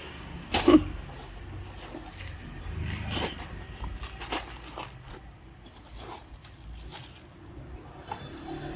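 Small metal parts, such as screws and hardware, clinking and knocking as they are handled, with scattered sharp clicks, the loudest about half a second in.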